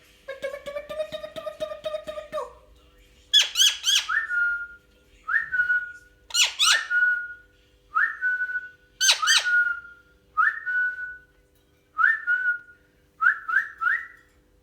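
Pet green parrot calling: a drawn-out pitched call, then three harsh screeches spaced a few seconds apart, mixed with a run of short rising whistles repeated about once a second.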